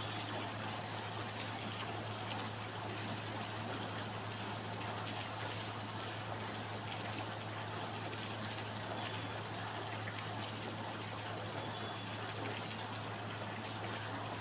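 Steady rain falling with water trickling, an even unbroken wash of sound, over a low steady hum.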